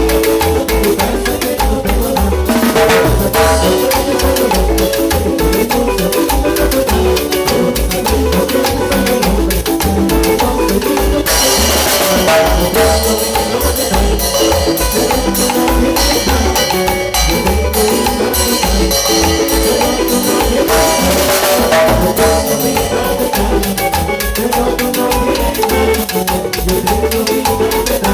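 Cumbia band playing live: a steady dance beat with bass and drums. The cymbals and higher instruments come in brighter partway through.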